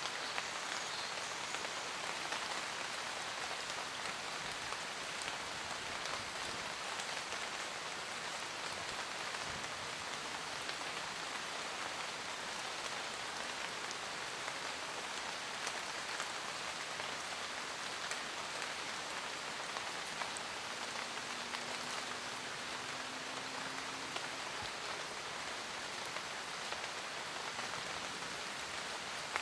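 Steady rain pattering on a roof, with scattered louder drops ticking.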